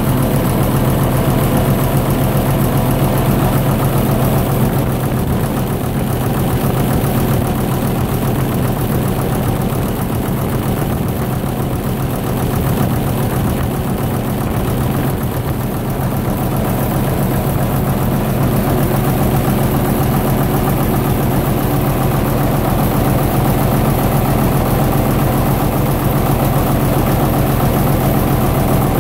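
Gardner LW diesel engine driving a generator, running at a steady speed with an even, unchanging beat.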